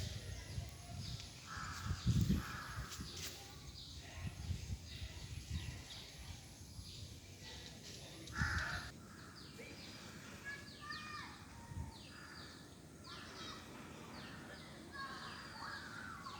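Birds calling outdoors: a few short harsh calls in the first half, then many quick chirps from about ten seconds in, with some low thumps near the start.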